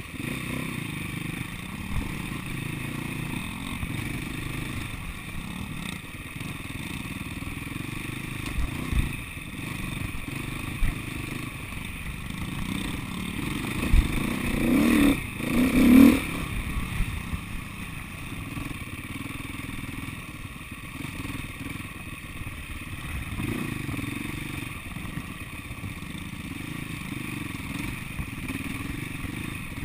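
SWM 300RS enduro motorcycle's single-cylinder four-stroke engine running at low revs under trail riding, with a short burst of revving about halfway through. A few dull knocks come through.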